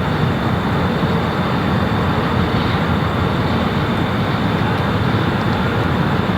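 Jet airliner engines running steadily, a loud continuous noise heaviest in the low end with a faint thin high whine on top.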